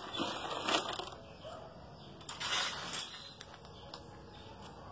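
Handfuls of dried corn kernels thrown onto a roof, rattling in two brief bursts: one in the first second and another about two and a half seconds in.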